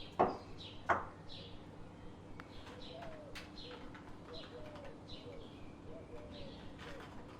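Birds calling outdoors: repeated short high chirps about twice a second, with short low call notes among them. Two short, loud sounds come within the first second.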